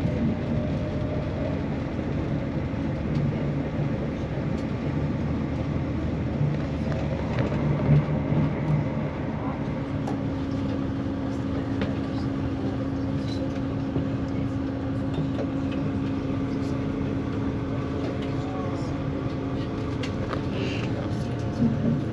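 Cabin noise inside a CrossCountry Voyager diesel multiple unit under way: a steady rumble of the train running on the track, with a steady hum that comes in about ten seconds in.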